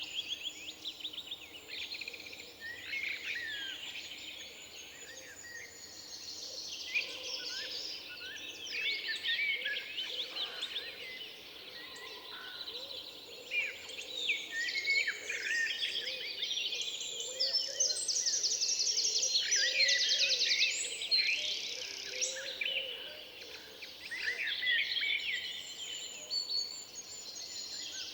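Forest bird chorus: several songbirds singing and calling at once, overlapping chirps and whistles, with fast rapid trills about two-thirds of the way in.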